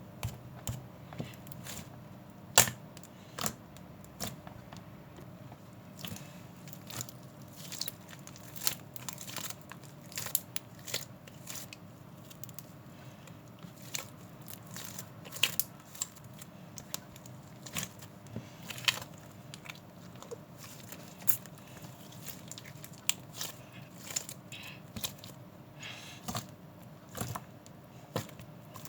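Irregular sharp clicks, taps and crackles, a few each second, with a louder snap about two and a half seconds in, over a faint steady hum.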